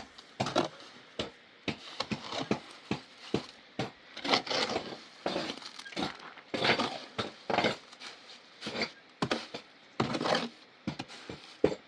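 Irregular knocks, clinks and short scrapes of stones and hand tools being worked in building, many strikes at uneven intervals with a few longer rasping scrapes among them.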